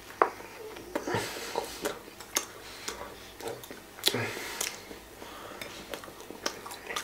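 A person biting into and chewing a grilled ham-and-cheese sandwich close to the microphone, with irregular wet mouth clicks and crackles, the sharpest just after the bite.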